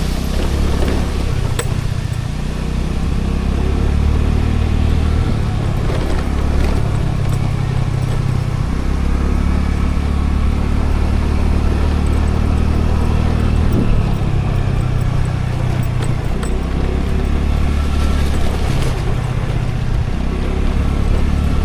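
A motor scooter riding along the road: its engine runs under a heavy low rumble of road noise, which swells and eases every few seconds.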